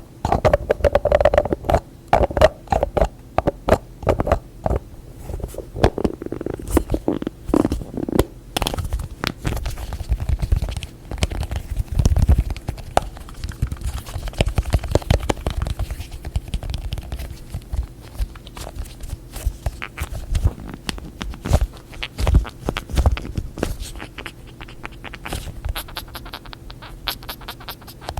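Close-miked fingers tapping quickly on containers and their lids: dense runs of light taps and clicks, louder in the first third and lighter after that.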